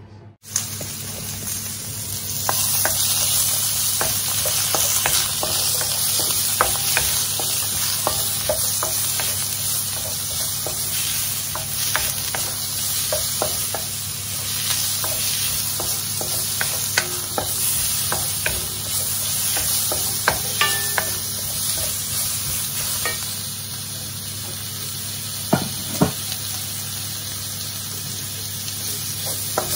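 Sliced onions sizzling in a black wok while being stirred with a wooden spoon: a steady frying hiss with scattered light knocks of the spoon against the pan, starting suddenly about half a second in.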